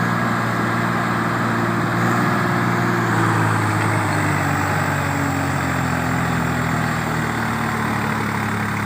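Swaraj tractor diesel engine running steadily, its note easing slightly lower partway through.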